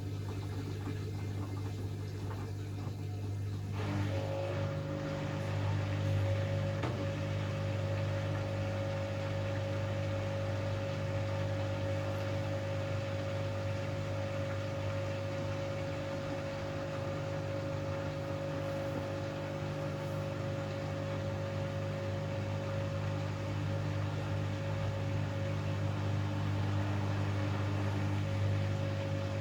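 Hoover Axi 9 kg washing machine running with a steady low hum; about four seconds in, a steady higher motor whine and a louder rush set in and hold.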